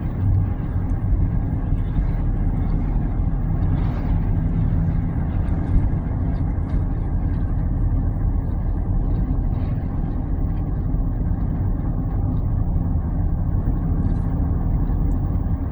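Steady road noise inside a small car cruising at about 45 mph: engine and tyre sound blended into an even, low hum with no changes.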